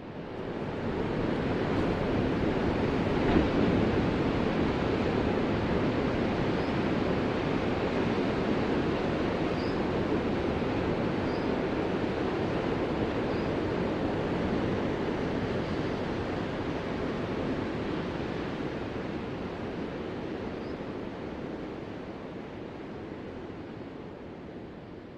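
Ocean surf: a steady wash of waves that swells up quickly at the start, holds, and slowly dies away toward the end.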